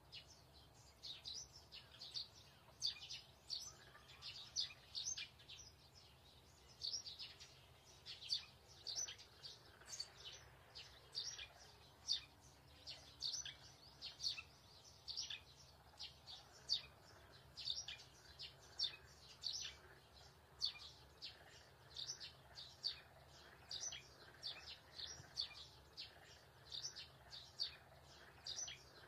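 A small bird chirping over and over, short high chirps about one or two a second, over a faint steady low hum.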